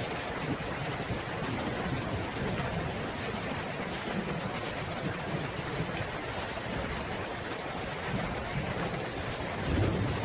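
Steady rain falling, an even hiss. A low rumble of thunder swells near the end.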